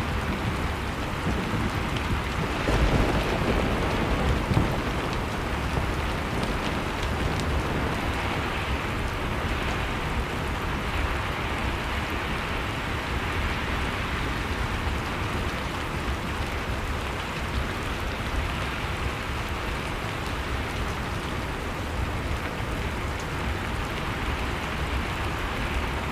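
Steady blizzard wind noise with a low rumble underneath, layered with the faint, scattered crackle of a wood fire.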